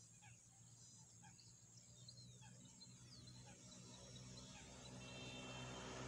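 Near-silent outdoor ambience: small birds chirping faintly and repeatedly in the background over a low steady hum, with the background noise rising a little near the end.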